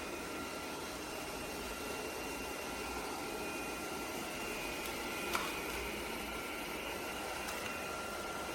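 Steady machine whir with a faint high whine, and a single sharp click about five seconds in.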